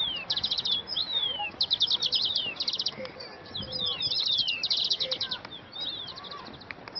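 Several small birds chirping and singing together: short, rapid trills of high notes alternate and overlap with quick downward-sliding whistles.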